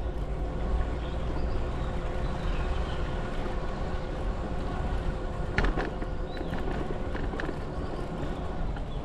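Steady noise of a bicycle ride: low wind rumble on the microphone with rolling tyre and drivetrain noise, and a short clatter a little past halfway.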